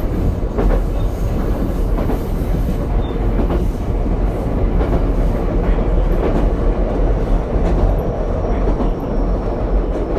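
Running noise heard inside an Ichibata 7000-series railcar on the move: a steady, loud rumble of wheels on rail, with irregular clacks as the wheels pass over rail joints.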